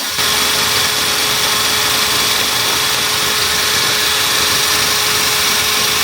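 An electric power tool runs at a steady speed, shaking a spray can of etch primer to free and mix its agitator ball.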